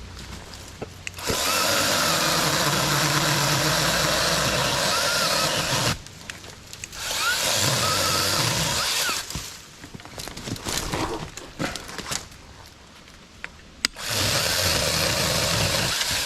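Saker 20-volt cordless mini chainsaw running in three bursts as it cuts branches: a long one of about five seconds, a short one of about two seconds, then another starting near the end.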